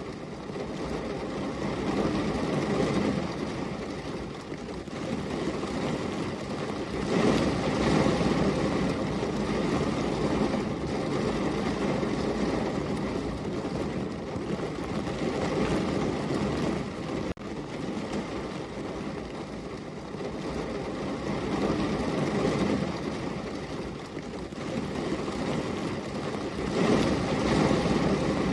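Rain falling, a dense continuous hiss that swells and eases every few seconds.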